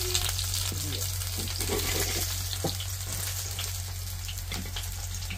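Batter-coated pumpkin flower fritters sizzling as they shallow-fry in oil in a black pan, with a few clicks and scrapes of a metal spatula against the pan as they are turned.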